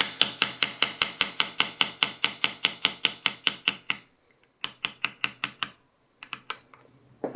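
Rapid, even run of short, sharp metal-on-metal strokes from hand-working a pistol sight in its dovetail, about five a second for four seconds. Two shorter runs follow after brief pauses.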